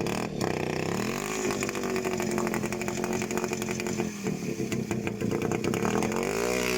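Small off-road vehicle engine running under throttle. It revs up about a second in, holds steady, drops briefly around the middle, and revs up again near the end.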